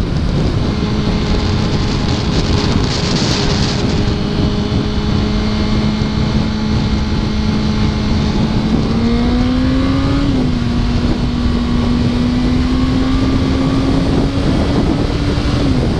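Yamaha R1 sport bike's inline-four engine running at a steady cruising pitch under heavy wind noise on the microphone. About nine seconds in, the engine note rises and then dips. It climbs slowly again and drops once more near the end.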